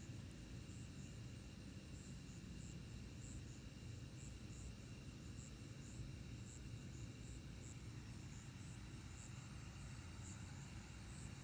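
Night insects chirping: short, high chirps at roughly two a second, over a steady low hum.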